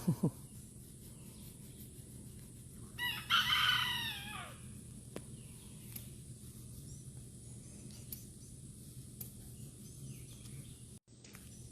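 A rooster crowing once, about three seconds in, for about a second and a half, the call dropping in pitch at the end.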